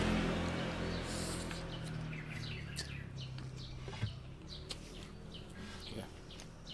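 Small birds chirping, a steady run of short, high, falling chirps. Under them a low engine hum fades away over the first few seconds, and there is a single sharp tap about four seconds in.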